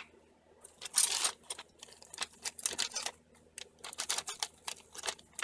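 Irregular light clicks, taps and rustles of small brake parts, pads and a grease tube being handled and set down, with one sharp click at the very start.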